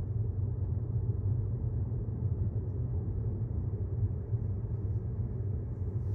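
Steady low road and tyre rumble heard inside the cabin of a 2018 Tesla Model S 75D driving at about 30 mph.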